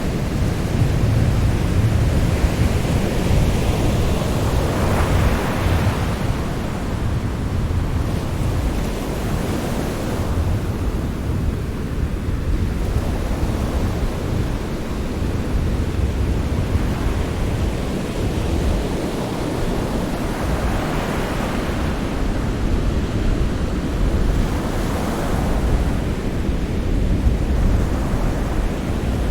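Sea surf: a continuous wash of waves with a deep rumble underneath, swelling as waves break about five seconds in and twice more near the end.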